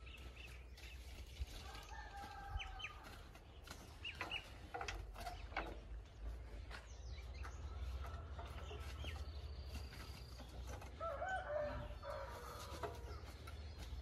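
Faint bird calls, a few clucks and chirps, over a low outdoor rumble, with some light clicks and knocks here and there.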